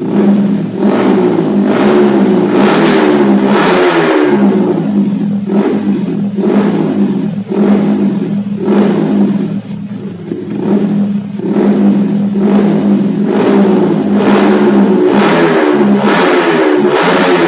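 Yamaha R15 VVA's single-cylinder engine revved hard through a Tridente three-mode aftermarket full-system exhaust set to its loudest racing mode. Held stretches of revs alternate with runs of quick throttle blips, about one a second.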